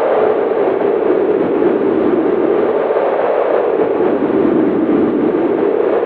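Strong winter wind howling in a steady rush, its pitch sinking through the middle and rising again near the end.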